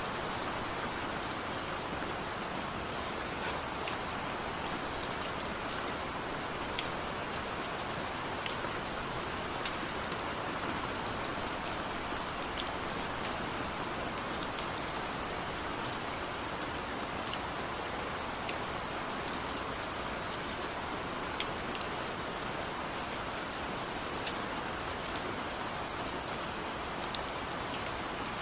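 Steady rain falling, an even hiss with scattered sharp drip and drop ticks on nearby surfaces.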